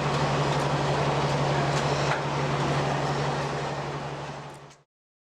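Diesel-hydraulic locomotive running with a steady drone, dropping in level after about two seconds and fading out to silence near the end.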